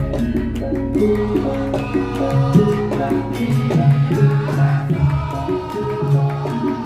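Javanese gamelan music for lengger dance: a gending of held, stepped melodic notes over a steady drum and percussion rhythm.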